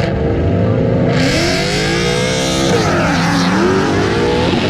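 Drag-racing street car accelerating hard down the strip, its engine pitch climbing, dropping sharply at a gear change about halfway through, then climbing again.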